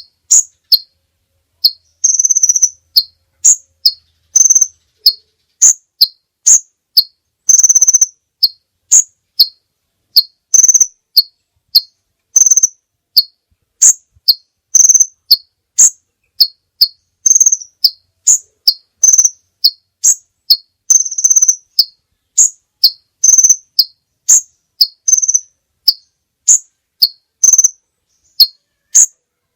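Songbird chirping in short, high, sharp notes about twice a second, with a longer drawn-out note every few seconds.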